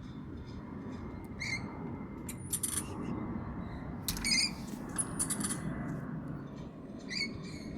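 Parrots giving a series of short, shrill calls, the loudest about four seconds in.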